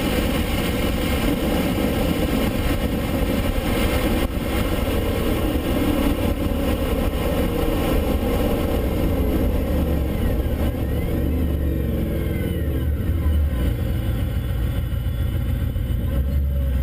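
Car engine running hard at speed, heard from inside the car with wind and road noise. About two-thirds of the way in the higher part of the sound fades and a deep, low drone remains as the car slows for a corner.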